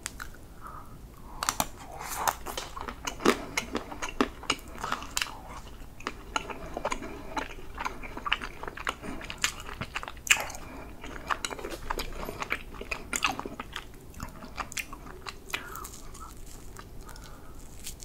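Close-miked crunching and chewing of a white chocolate stick cake decoration, with many crisp, sharp bites. Near the end it tails off to softer chewing.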